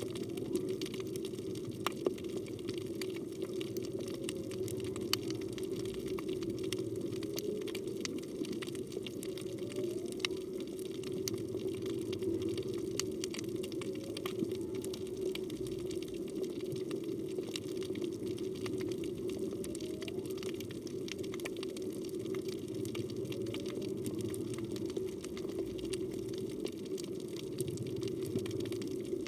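Underwater reef ambience: a steady wash full of fine crackling clicks, with faint short rising calls every few seconds from humpback whales singing in the distance.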